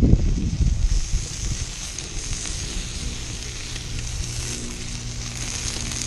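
Sausages cooking over a campfire: steady sizzling and crackling, with a low bump at the very start.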